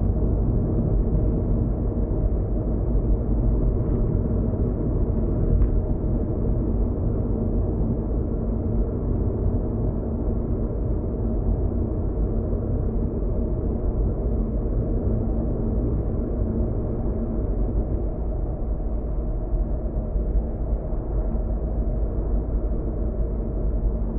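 Steady low rumble of a car driving at speed, tyre and engine noise heard from inside the cabin, with a couple of faint ticks a few seconds in.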